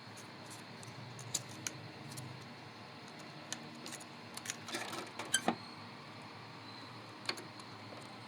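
Scattered light clicks and taps, about eight in all and the loudest a quick cluster just after the middle, as hands work on an Epson L-series inkjet printer during repair, over a faint steady hiss.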